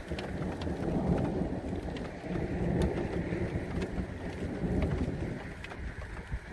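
Wind gusts buffeting the microphone in a thunderstorm, a low rumbling noise that swells and eases, with scattered ticks of raindrops.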